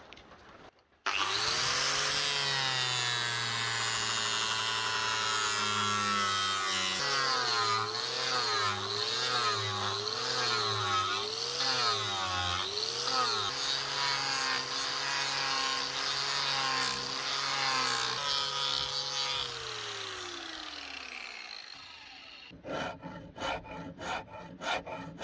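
An electric power tool motor starts abruptly and runs with a steady pitch. The pitch wavers up and down for several seconds as the work loads it, then the motor winds down over about three seconds after it is switched off. Near the end come quick rhythmic rubbing strokes, about three or four a second, of hand filing or sanding.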